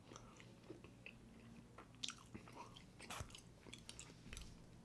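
Faint chewing and mouth sounds, with a few soft sharp clicks and smacks scattered through a near-silent room.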